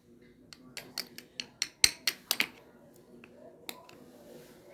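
A quick run of about a dozen sharp clicks and taps from kitchen things being handled, over about two seconds, then a single click a little later.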